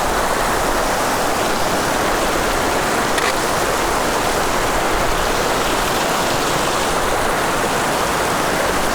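Fast-flowing mountain river rushing, a steady, loud wash of water.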